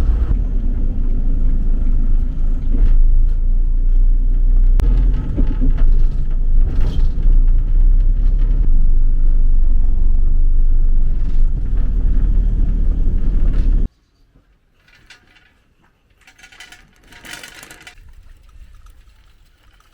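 Low, steady rumble of a road vehicle in motion. It cuts off suddenly about fourteen seconds in, leaving only a few faint, light sounds.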